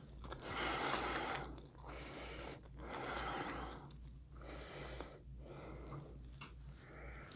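A person breathing heavily and noisily through the nose and mouth, in long rushing breaths. The loudest comes about half a second in and another near the middle, with weaker ones after.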